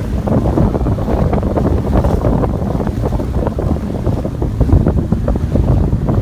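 Wind buffeting the microphone on a jet ski underway, with the watercraft's engine running underneath; a steady, choppy rumble.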